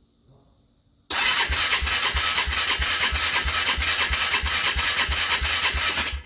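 A vehicle engine turning over on the starter from cold: a loud, even churning with a regular low pulse about three or four times a second. It begins suddenly about a second in and cuts off abruptly just before the end.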